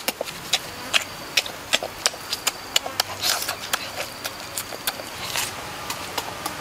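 A person chewing roasted pork noisily with open-mouthed lip-smacking: a quick, irregular run of sharp smacking clicks, about three a second.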